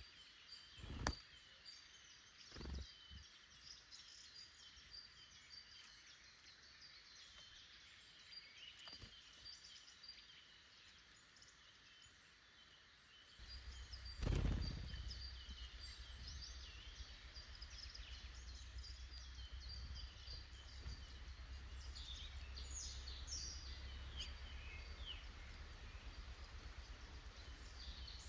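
Faint woodland birdsong: many small birds chirping and calling at once. A few sharp knocks come through, the loudest about halfway. From about halfway a steady low rumble runs underneath.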